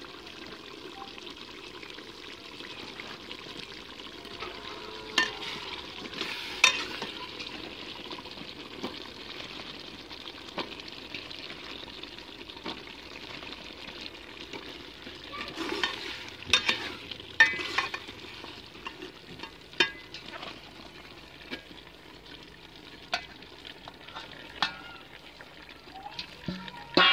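Eggplant and potato pieces sizzling steadily in hot oil in an aluminium pot, broken by sharp metal clinks of a steel spatula and steel dishes against the pot, with a cluster of clinks a little past the middle and more near the end.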